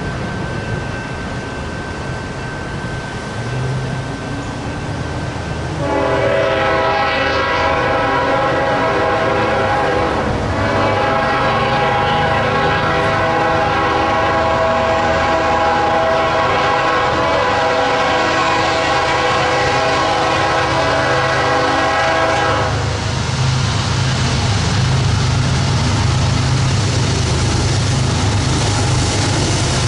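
Approaching train's locomotive sounding its air horn, a chord of several notes held in two blasts: a short one, then a long one of about twelve seconds. Once the horn stops, the train rumbles past with some clickety-clack of wheels on rail joints.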